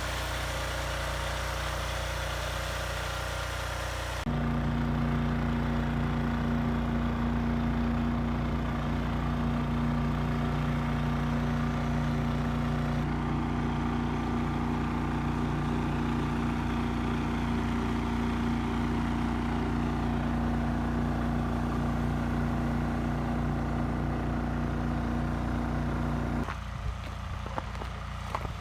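A vehicle engine running steadily at an even speed. Its sound changes abruptly about four seconds in, running louder and steadier, then drops back near the end.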